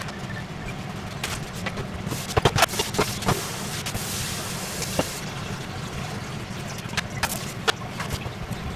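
Scattered clicks and knocks of cooking gear being handled, clustered a couple of seconds in, over a steady low hum. A hiss lasting about a second comes just after four seconds in.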